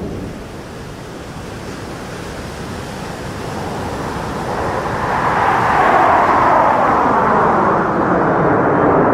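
Jet aircraft flying past, its noise building up over several seconds and loudest in the last few seconds, with a falling sweep in pitch as it goes by.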